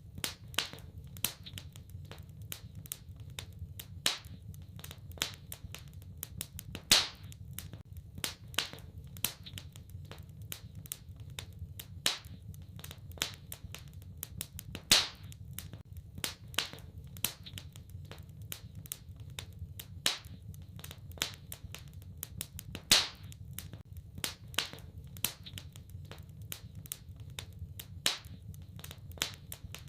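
Wood fire in a fireplace crackling: irregular sharp pops and snaps over a steady low rumble of burning, with a louder pop about every eight seconds.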